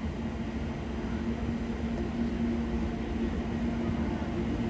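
ET22 electric locomotive hauling a loaded coal train, a steady low rumble with a constant hum over it, growing slightly louder.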